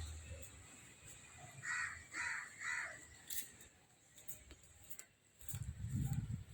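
A crow cawing three times in quick succession, with a low rumbling noise near the end.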